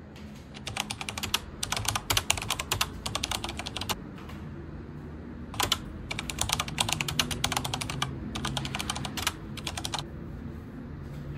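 Rapid clicking taps in several quick bursts, like typing, with short pauses between runs and a single sharper click midway. The clicks stop about ten seconds in.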